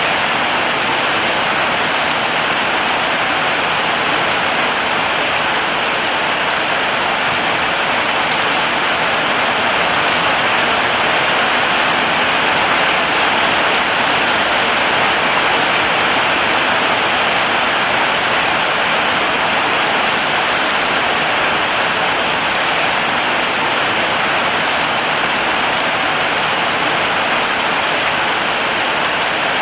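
Heavy rain falling steadily, a dense even hiss with no distinct drops or gaps.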